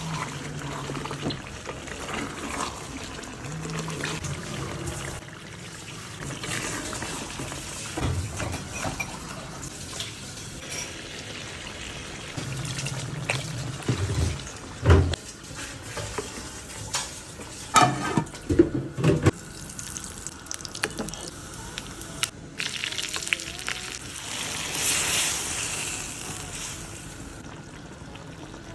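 Cooking sounds: liquid being poured and stirred in a pot, with scattered sharp knocks of a utensil against the pan, several of them close together around the middle.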